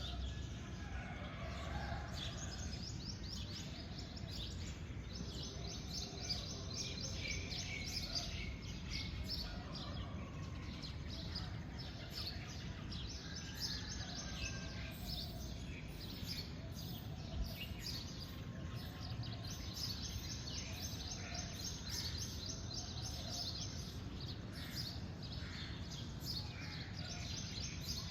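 Several small birds chirping and trilling in quick, overlapping calls over a steady low background rumble.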